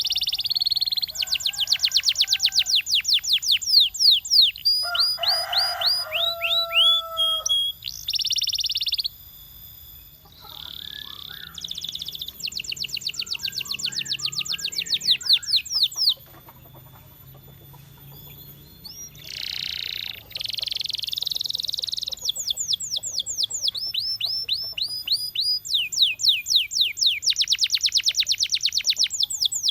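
Canary singing: phrases of fast, evenly repeated high notes, each run lasting a few seconds, broken by brief pauses, with a longer lull about ten seconds in and another around sixteen to nineteen seconds.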